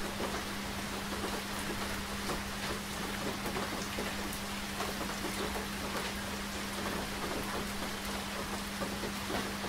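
Steady rain, with a dense spread of single drops ticking on a surface. A steady low hum runs underneath.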